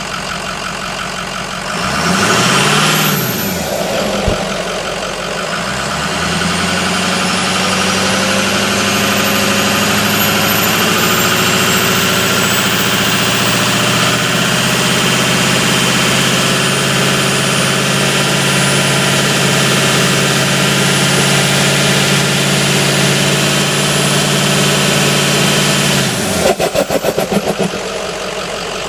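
Turbocharged 6.0-litre engine idling, then revved briefly with a high turbo whistle that rises and falls, then held at raised revs for about twenty seconds while a high turbo whine slowly climbs in pitch. When the throttle closes near the end, the revs fall and a rapid fluttering chatter comes through: the weird turbo noise on deceleration that the owner asks about, on an engine that also feels sluggish.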